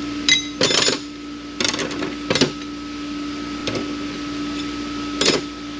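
Ford AOD transmission clutch plates, the reverse input pack among them, clinking and clattering as they are handled: a few scattered clicks and two short rattles near the start, over a steady hum.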